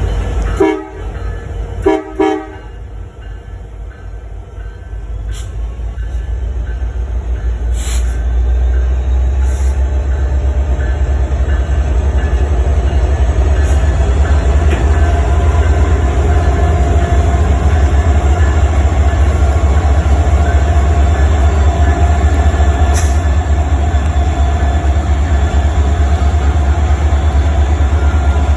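A horn sounds two short blasts. A low, heavy rumble then builds over several seconds and holds steady and loud.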